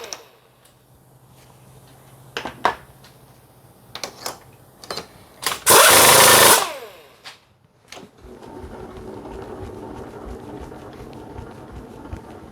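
CNC knee mill machining aluminium: a few sharp clicks, a loud hissing burst about six seconds in, then the mill running steadily from about eight seconds in.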